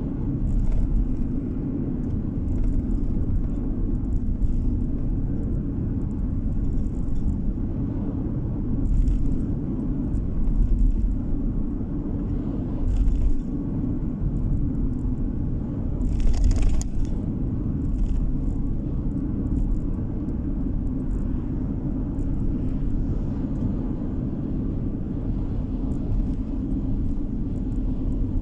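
Car driving on the road, heard from inside: a steady low rumble of engine and tyres, with a few brief hissing swells.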